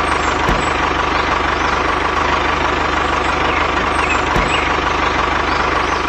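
An engine running steadily at idle, with a rapid, even pulsing.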